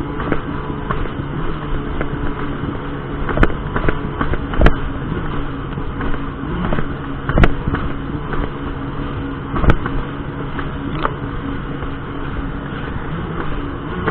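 Jet ski engine running at speed, its pitch wavering a little, under steady rushing noise. Sharp knocks cut through about every two to three seconds.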